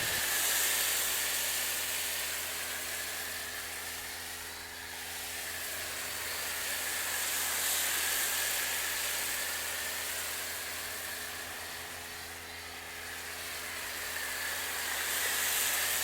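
Pressure washer running with a foam cannon spraying snow foam onto a vehicle panel: a steady hiss of spray over the washer's low motor hum. It swells and fades slowly in level twice.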